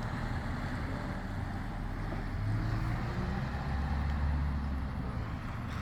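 Road traffic on a wet road: engine rumble with tyre hiss from passing vehicles, the low rumble building to its loudest about four seconds in as a heavier vehicle goes by.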